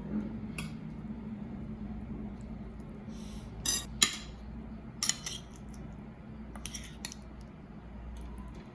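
Kitchenware being handled and set down: scattered light clinks and clatters of utensils and dishes, the sharpest about four seconds in, over a faint steady hum.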